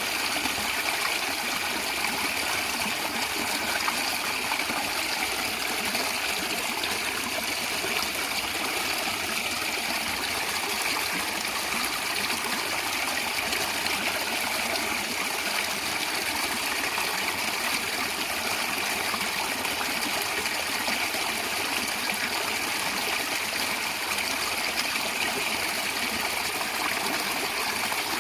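A shallow stream running and gurgling steadily over stones, a continuous rushing with a bright trickling quality.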